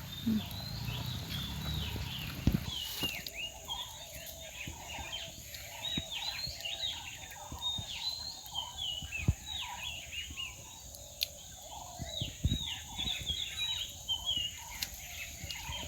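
Many birds chirping at once in short, overlapping calls that sweep down in pitch, with a few sharp knocks here and there.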